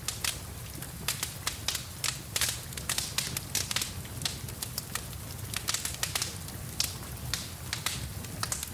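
Wood fire in a fireplace crackling, with frequent irregular pops and snaps over a steady low rumble, and rain falling.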